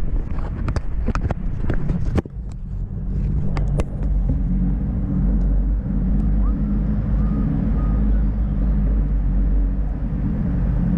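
Steady low rumble of riding noise, wind and road, on the moving camera. A handful of sharp clicks and knocks come in the first two seconds.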